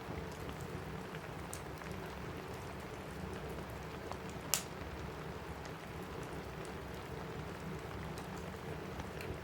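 Steady rain falling on a cabin roof, mixed with a fireplace crackling in sparse sharp clicks, one louder pop about halfway through.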